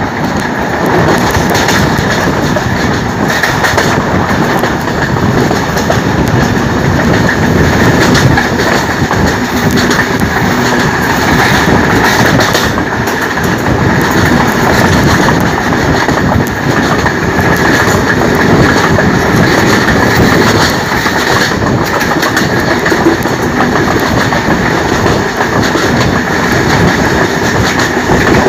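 Passenger train coaches running steadily along the track, heard from an open coach window: a continuous rumble with the wheels clicking over the rails.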